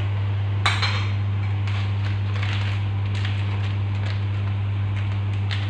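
A steady, loud low hum, with a sharp clatter about half a second in and a shorter tick near the end.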